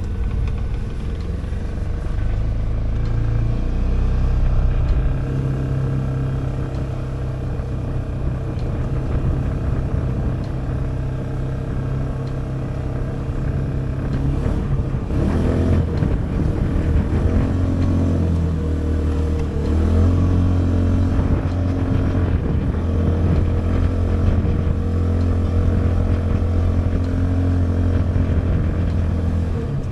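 Polaris Ranger 570 side-by-side's single-cylinder engine running steadily while driving, dropping to a lower steady note about halfway through.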